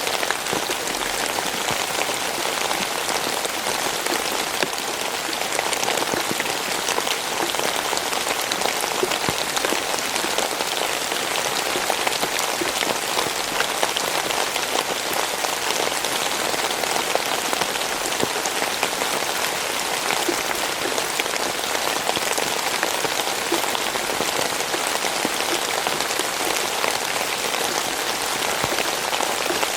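Steady rain falling, a dense even hiss made of countless small drop impacts on a surface, with no let-up.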